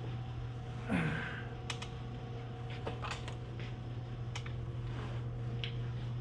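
Scattered light clicks and knocks of equipment being handled, over a steady low hum, with one brief falling squeak about a second in.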